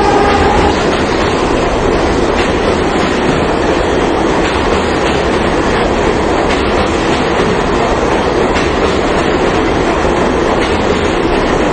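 Subway train running on the tracks: a loud, steady rumble of wheels on rail with occasional clicks over the joints.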